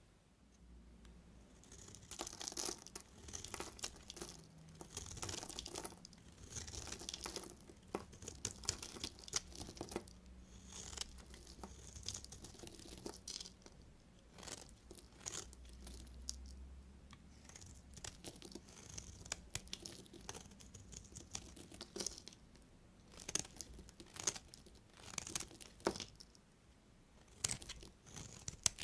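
A knife cutting through bars of soap: a long run of short, crisp, crunchy scraping strokes, one after another.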